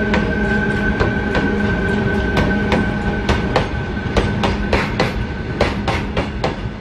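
A freight train of open BOXN wagons rolls past behind an Alstom WAG 12 electric locomotive, its wheels clicking over rail joints two or three times a second over a steady rumble. A steady whine and hum from the departing locomotive fades out about five seconds in, and the sound grows slowly quieter as the train draws away.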